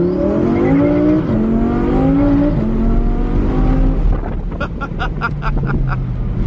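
Twin-turbo Audi R8 V10 accelerating hard, its engine note climbing through several gear changes. After about four seconds it comes off the throttle into a rapid, even chatter of about five strokes a second.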